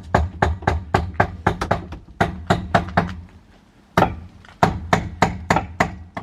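A rapid series of sharp knocks, about three to four a second, pausing for about a second midway before another run of knocks.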